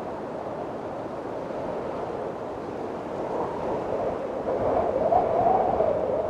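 Windstorm: a steady rush of wind that builds into a louder gust about halfway through, with a wavering tone rising and falling in pitch inside the gust.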